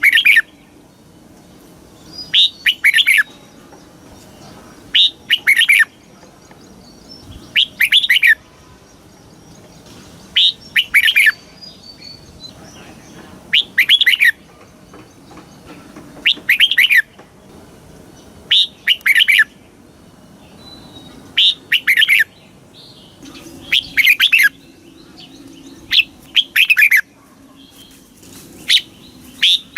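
Red-whiskered bulbul singing, repeating one short two-part song phrase about every two and a half to three seconds.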